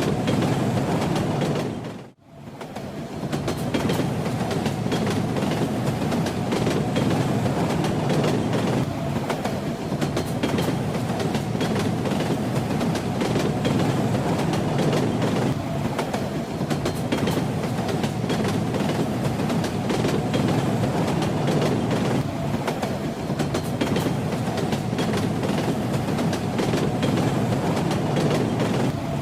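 Train wheels rumbling and clattering on the rails in a steady run. The sound fades out almost completely about two seconds in, then swells back.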